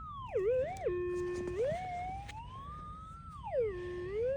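Minelab GPX 6000 metal detector's audio tone wavering in pitch, sliding down low, rising high and dropping again before settling back to its steady threshold hum, as the GPZ 14 coil passes over a target: the signal of a small gold nugget.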